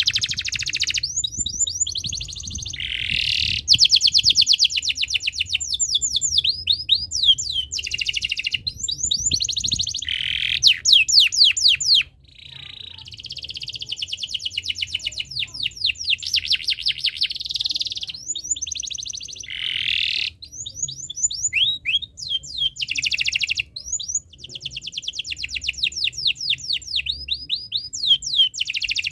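Male domestic canary in breeding condition singing continuously. It sings long phrases of rapid trills and fast runs of repeated down-sweeping notes, with a short break about twelve seconds in.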